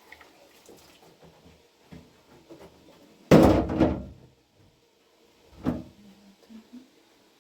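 A loud bang or clatter, like a door or lid knocked shut, about three seconds in. A shorter, weaker knock follows about two seconds later, with light clattering between.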